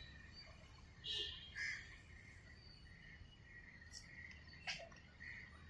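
Faint outdoor ambience with a few short bird chirps about one to two seconds in, and a couple of faint clicks later.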